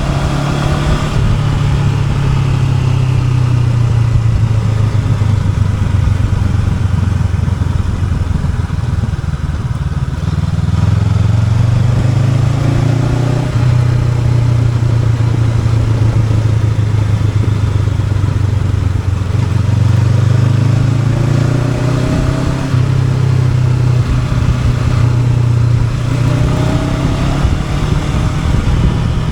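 Honda NX500 motorcycle's parallel-twin engine running under way, its note rising several times as it accelerates and then settling.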